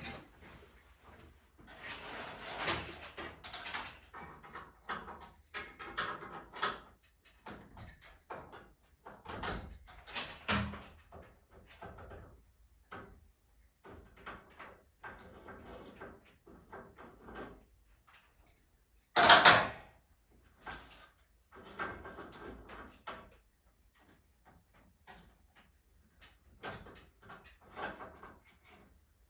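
Irregular metallic clicks, knocks and short rattles of work on a garage door's torsion spring hardware, with one louder clatter about two-thirds of the way through.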